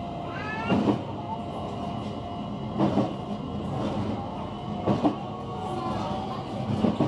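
JR West 125 series single-car electric train running on jointed track, heard from inside the car: a steady running hum, with a sharp thump from the wheels crossing a rail joint about every two seconds.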